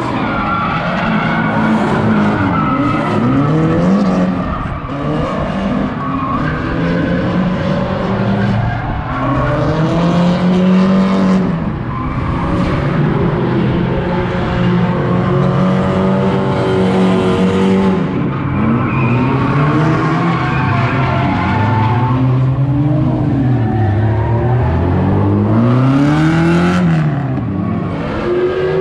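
A 630-horsepower drift car's engine revving up and falling back over and over while its tyres skid and squeal through a drift.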